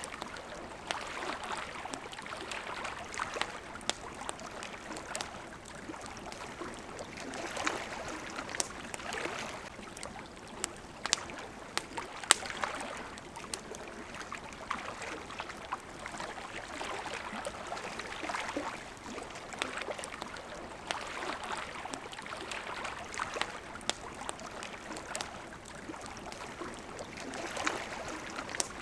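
Water lapping at a shore in gentle swells every few seconds, with a campfire crackling and popping throughout in sharp, irregular clicks.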